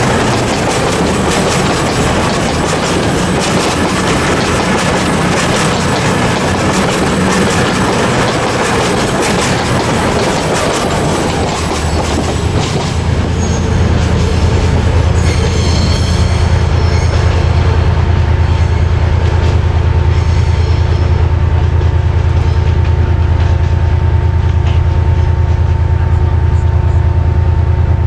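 A train moving on the rails through the station, with dense wheel noise, rail clicks and wheel squeal. About halfway through this gives way to a steady low hum from a train that holds to the end.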